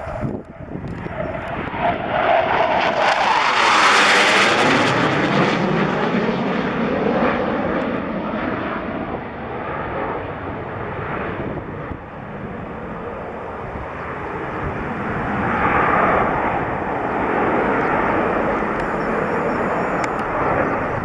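Jet noise from a Panavia Tornado's twin RB199 turbofan engines during a high-speed flypast. It builds to its loudest about four seconds in, falling in pitch as the jet passes, then fades into a long rumble that swells again around sixteen seconds.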